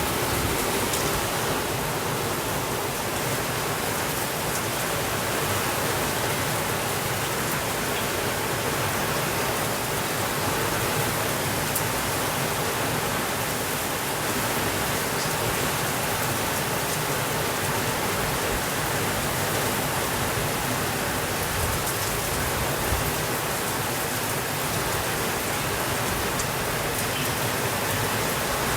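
Steady rainfall, an even, unchanging hiss, with a few faint ticks scattered through it.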